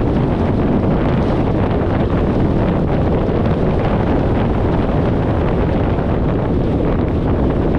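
Steady wind rush over the microphone of an externally mounted camera on a 1994 VW Gol at highway speed, mixed with the car's road and tyre noise.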